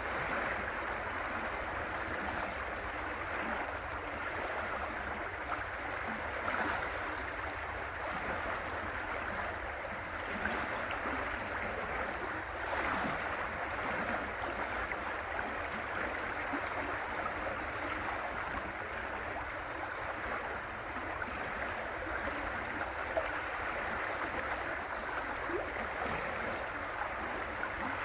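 River water rushing and gurgling over rocks: a steady, even flow with small splashes now and then.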